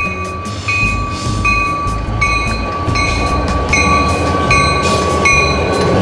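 A short train pulled by two small locomotives passing, its wheels running on the rails and growing louder.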